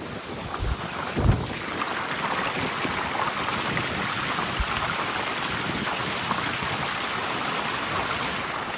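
Strong mountain wind: a few low buffets hit the microphone in the first second or so, then a steady rushing hiss.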